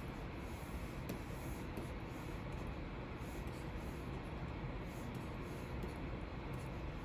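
Stylus nib sliding across the screen of a Wacom Cintiq 24 Pro pen display in steady drawing strokes, a soft continuous scratching.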